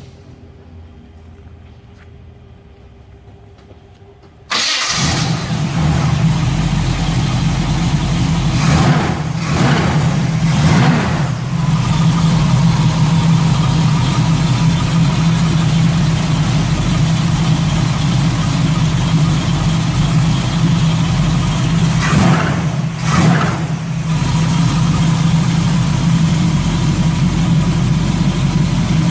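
1969 Chevrolet Camaro's engine starting about four and a half seconds in, catching at once and then idling steadily. The throttle is blipped twice a few seconds after the start and once more later, each a brief rev up and back down.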